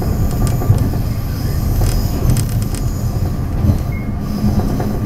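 Running noise of a Taiwan Railways DR3000 diesel multiple unit on the move: a steady low rumble of wheels on track with scattered clicks and knocks.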